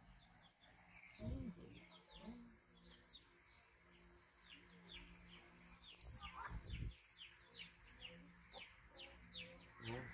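Faint bird chirping, a run of short falling notes repeating a few times a second, heavier in the second half, with a couple of soft low thumps.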